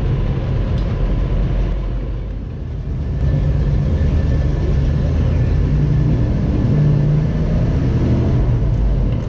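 Engine of a 1948 Ford F5 bus running as the bus drives. It eases off briefly about two seconds in, then pulls steadily again.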